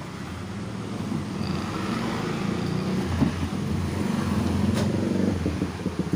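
A motor vehicle's engine running, growing louder over the first two seconds and then holding steady.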